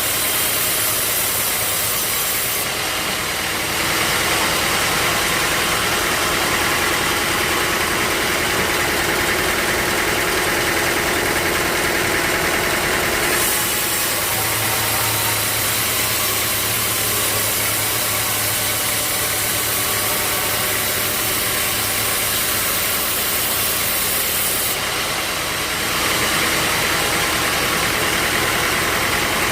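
Sawmill machinery running steadily, a loud mechanical drone. Its tone shifts a few times: about 3 to 4 seconds in, around 13 seconds, and again near 25 seconds, as if the load changes.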